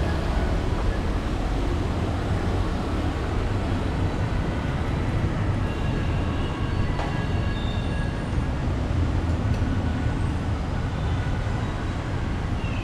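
Steady low rumble of motor vehicles, with faint high squeaks and a few light ticks over it.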